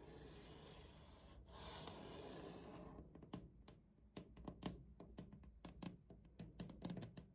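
A faint breathy hush for a few seconds, then a run of faint, irregular light taps and clicks, a few each second.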